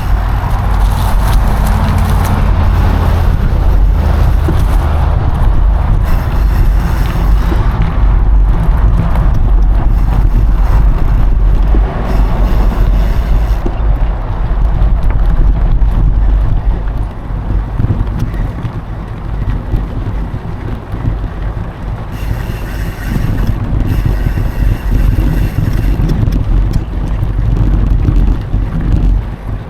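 Wind buffeting an action camera's microphone during a mountain bike ride, over a steady low rumble of tyres and bike running on a dry dirt trail with scattered small knocks. It eases off a little from about seventeen seconds in, then picks up again.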